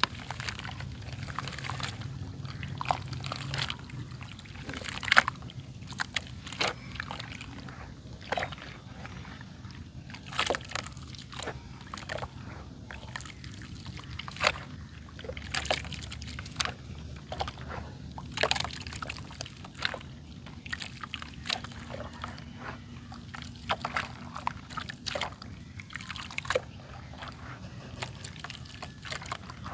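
Dry red dirt clay crumbling and crunching, with irregular sharp crackles and snaps several times a second over a faint steady low hum.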